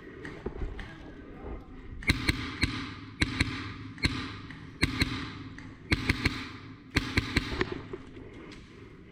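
Airsoft gunfire in quick pairs and triplets of sharp shots, echoing off the walls of an indoor play area. It starts about two seconds in and stops shortly before the end.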